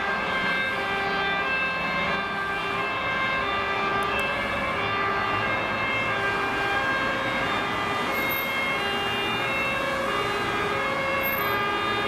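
Fire engine two-tone siren alternating steadily between a high and a low note, over the noise of the vehicles driving.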